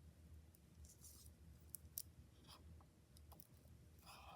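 Near silence with a few faint, scattered clicks and a short scratchy rustle near the end: plastic pony beads knocking together as plastic lacing cord is threaded back through a row of them.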